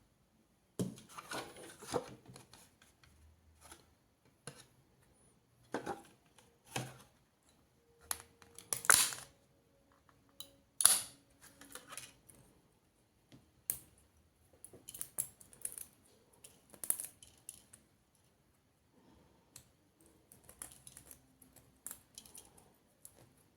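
Small hard objects handled by hand: irregular clicks, taps and rustles with quiet gaps between, the loudest a pair of sharp clacks about nine and eleven seconds in.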